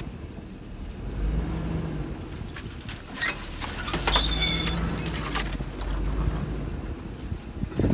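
Chevrolet Tahoe driving slowly on a rough dirt road: a low engine and road rumble with scattered knocks and rattles, and a brief squeak about four seconds in.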